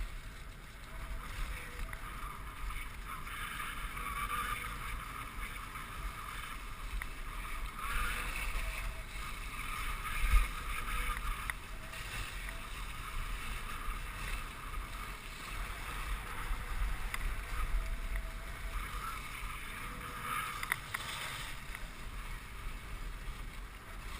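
Dog sled runners sliding steadily over a packed snow trail behind a running team of Siberian huskies, with one brief knock about ten seconds in.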